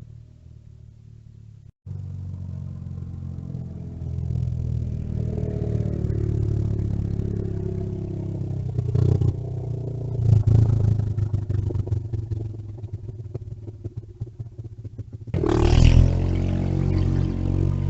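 Mini bike engines running and revving as the bikes ride by, their pitch rising and falling. A louder one comes in suddenly near the end.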